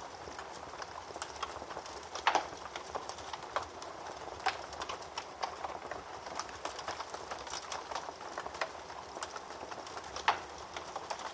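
Wood fire burning in a fireplace: a steady crackle and hiss full of small pops, with louder snaps about two seconds in, about four and a half seconds in, and near the end.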